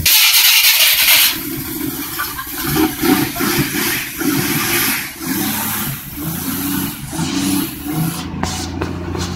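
A 1967 Ford Mustang GT's V8 engine running unevenly, an engine long out of use on its first runs, settling toward a steadier note near the end. A loud rushing noise fills the first second.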